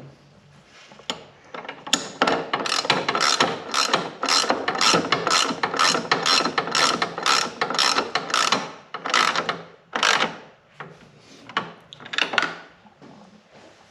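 Socket ratchet wrench cranked in a long run of quick back-and-forth strokes, clicking on each return, starting about two seconds in and turning irregular near the end, as the air cleaner support bracket hardware is tightened down.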